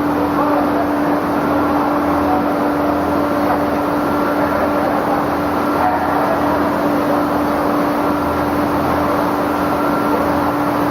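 Egg boiling and peeling production-line machinery running steadily, a continuous mechanical noise with a constant hum.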